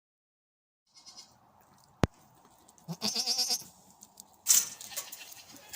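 A goat bleats once, a short wavering call about three seconds in, preceded by a sharp click and followed by a burst of rustling noise.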